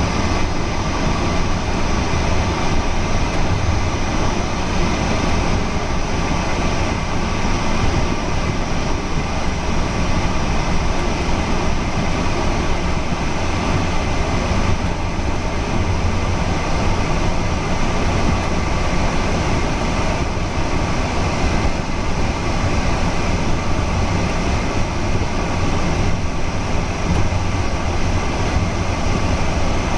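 Steady running noise of a passenger train at speed, heard from inside a coach: wheels rolling on the rails with a constant low rumble.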